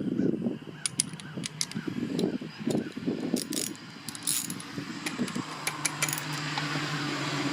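Small metal parts clinking and rattling as hardware is handled, with many sharp clicks.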